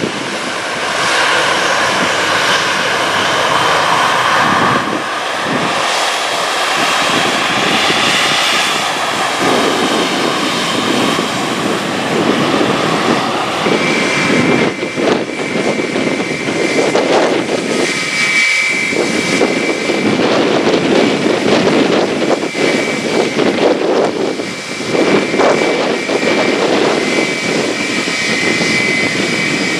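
Jet airliner engines running loudly: a Boeing 737-800 first, then from about halfway an Airbus A321, whose engines carry a steady high whine over the noise.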